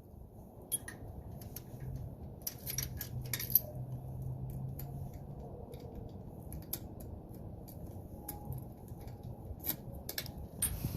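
Scattered light metallic clicks and jingles at irregular intervals over a faint low hum, with no engine running.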